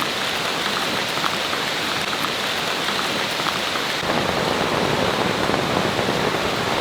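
Rain pouring down steadily as a dense hiss, growing fuller and deeper from about four seconds in.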